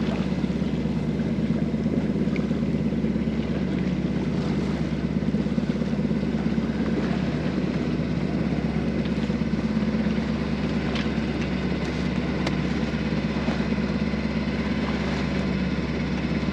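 Small sailboat's engine running steadily under motor, a constant low drone.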